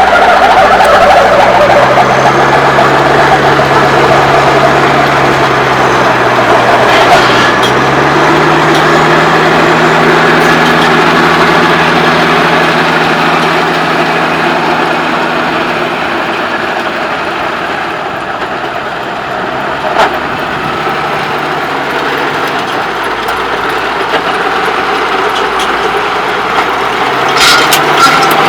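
Case IH Magnum 7210 tractor's six-cylinder diesel engine running steadily under load while working a power harrow. The engine note dips slightly about two seconds in and rises again a few seconds later, and the sound grows a little quieter past the middle before building back up.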